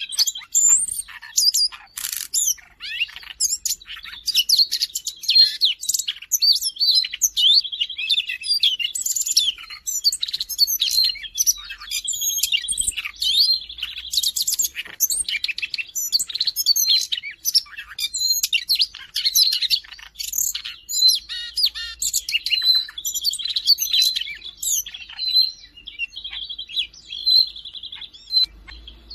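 Siberian rubythroat singing a fast, varied warbling song of quick high chirps and slurred notes, broken up several times by rapid buzzy trills held on one pitch.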